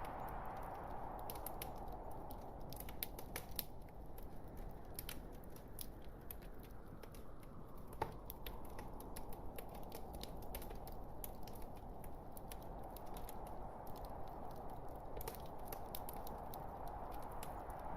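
Wood fire burning in a fireplace: a steady rushing hiss of flames with many small irregular crackles and pops from the logs, one sharper pop about halfway through.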